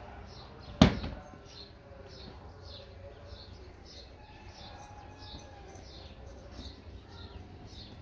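A small bird chirping over and over, short high chirps about twice a second. About a second in there is a single loud, sharp knock.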